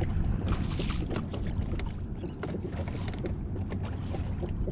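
Wind buffeting the microphone over the wash of water around a small boat, with scattered light clicks throughout.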